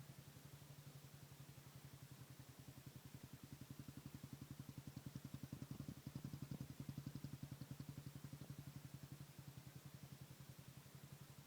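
Honda TRX400EX ATV's single-cylinder four-stroke engine idling through a Trinity aftermarket exhaust: a steady, rapid, even pulsing that swells slightly in the middle.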